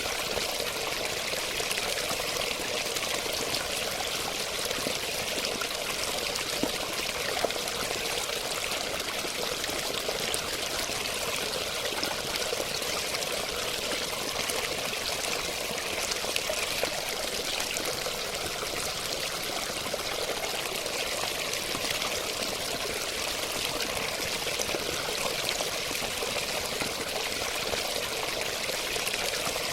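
Running water, a steady unbroken rush and splash with little deep rumble.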